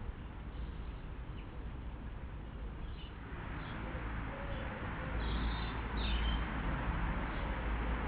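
A few short, high bird chirps around the middle, over a steady hiss and a low rumble that grows louder from about three seconds in.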